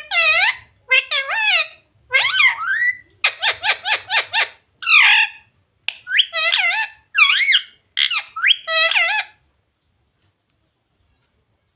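Pet parrot giving a quick run of high, squawky, voice-like calls and chatter that stops about nine seconds in.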